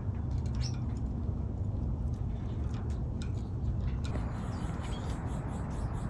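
Scattered short, faint high chirps and clicks from small cage birds over a steady low rumble.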